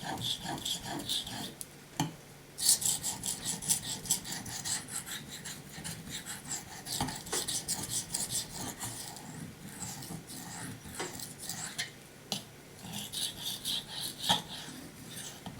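Steel knife blade stroked back and forth on a 5000-grit Naniwa Chosera waterstone: runs of quick rasping strokes with short pauses and a few sharp clicks. The edge is cutting into the stone and shaving its surface a little.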